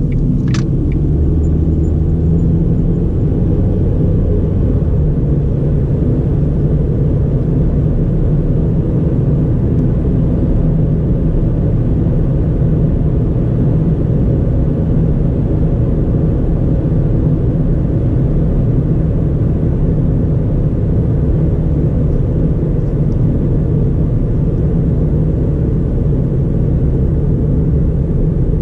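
Steady low drone of a 2009 Ford Fiesta 1.4 four-cylinder automatic driving at a constant pace, engine and tyre noise blended, with a brief sharp click about half a second in.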